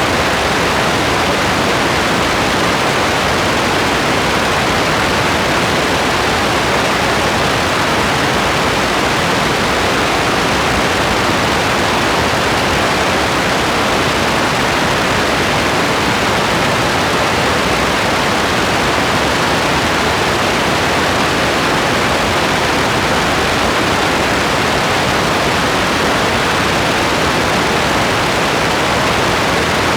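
Steady rain as a constant even hiss, with no separate drops, thunder or other sounds standing out.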